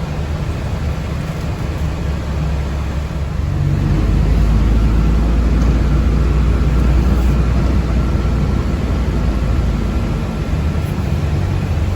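Inside a moving city bus: a steady low rumble of the drive and road that grows louder about four seconds in, with a faint steady whine on top.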